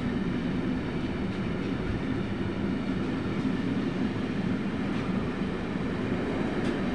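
Freight train of container flat wagons loaded with tank containers rolling past, a steady noise of wheels running on rail.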